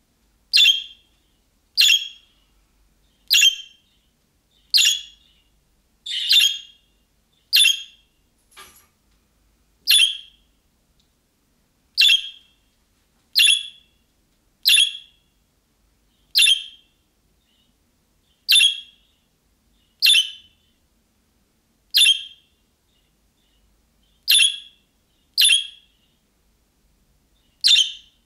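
Budgerigar calling chirps: one short, sharp call at a time, repeated every second or two with silence between, each call starting loud and dropping away quickly.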